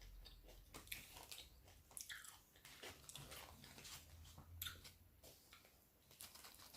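Faint chewing of a Subway steak and cheese sub: scattered soft mouth clicks.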